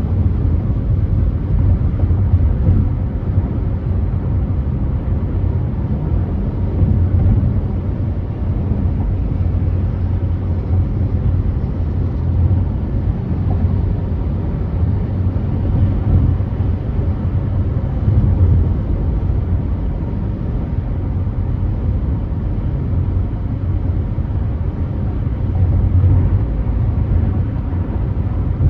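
Car driving at freeway speed: a steady low rumble of tyres on the road and the engine, swelling and easing slightly.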